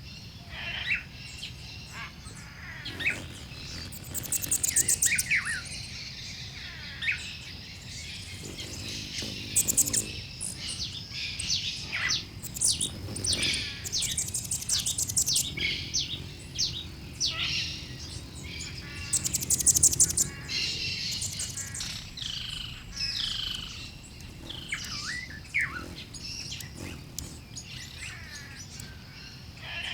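Mixed bird chorus: several birds chirping and calling over one another, with quick down-slurred whistles and short, rapid high trills coming and going.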